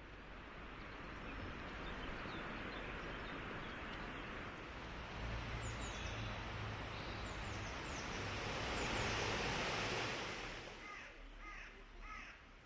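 Outdoor ambience: small birds chirping over a steady rush of background noise that builds, peaks about three-quarters of the way through, then fades.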